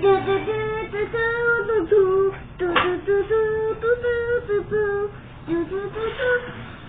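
A child singing a tune in a high voice, holding notes that step up and down.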